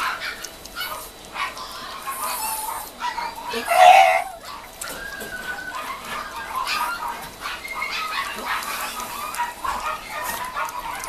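Mame Shiba puppies whining and yipping in short, high calls, with one louder yelp about four seconds in.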